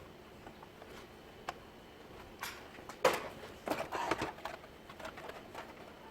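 Scattered clicks and knocks of hand tools and metal parts being handled, with the loudest knock about three seconds in and a quick cluster of knocks just after it.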